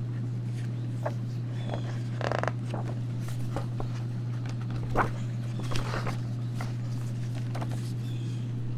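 Outdoor ambience: a few faint high bird chirps, one near the end, with scattered clicks and rustles, the most distinct about two and five seconds in, over a steady low hum.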